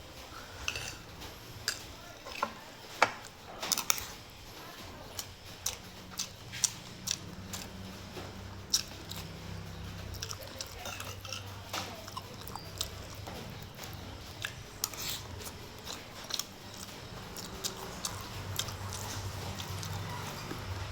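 A person biting and chewing crunchy food, with sharp, irregular crunches that come every second or so.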